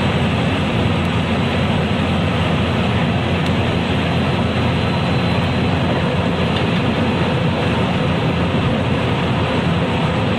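JR West 223 series electric multiple unit motor car running between stations: a steady rumble of wheels on rail and traction equipment, with a faint high whine.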